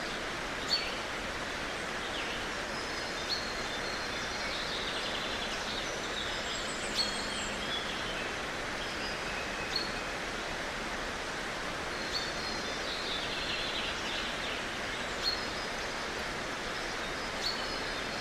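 Natural outdoor ambience: a steady hiss with birds calling, short high chirps and whistles, and a sharper call standing out every two to three seconds.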